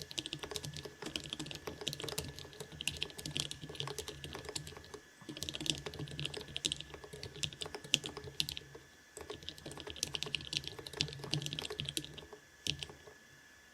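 Typing on a GergoPlex split keyboard with low-profile Kailh Choc Red linear switches, lubed with Krytox 204, and Choc keycaps: rapid runs of key clacks with two short breaks, stopping near the end.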